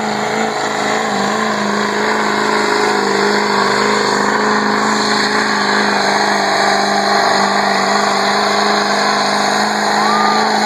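Pulling truck's engine at full throttle under heavy load, held at one steady high pitch throughout, as the truck drags the sled down the track.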